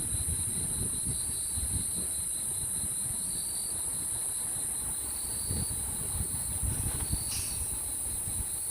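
Insects trilling steadily: a continuous high-pitched buzz with a finer pulsing trill beneath it, over low wind rumble on the microphone.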